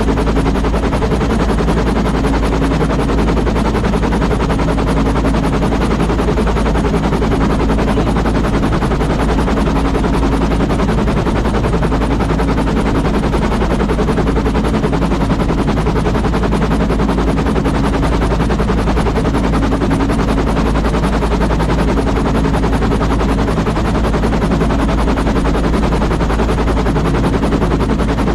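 An engine running steadily and close, with a fast, even pulsing and a heavy low rumble.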